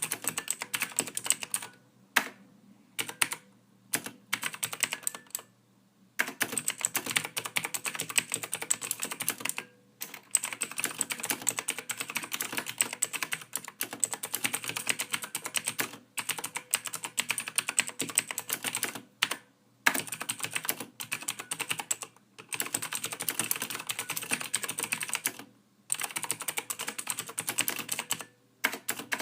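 Typing on a computer keyboard: rapid, continuous key clicks in runs of a few seconds, with brief pauses between runs.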